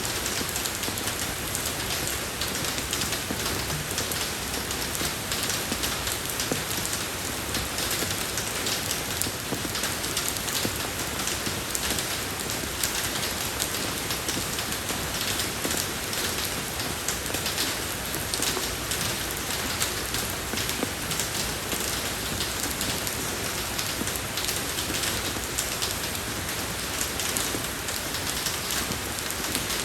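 Steady rain falling on a road surface: a constant hiss of water with dense patter of individual drops.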